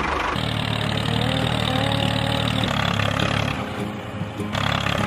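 A small motor running steadily with a low hum, its sound changing abruptly a few times.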